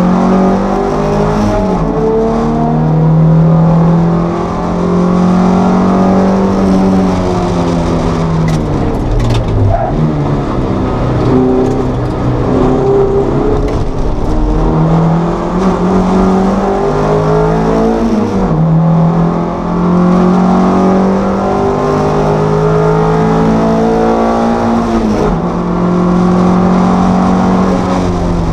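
Toyota MR2 race car's engine heard from inside the cockpit, revving up through the gears again and again, each climb in pitch cut by an upshift. It drops back in pitch and loudness briefly a few times as the driver lifts for corners.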